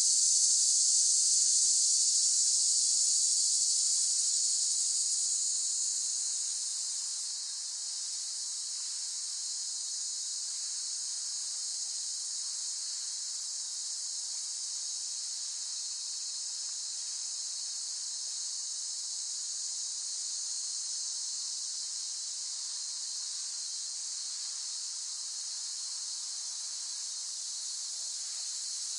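Cicadas buzzing in a steady, shrill chorus, louder for the first few seconds and easing down about seven seconds in.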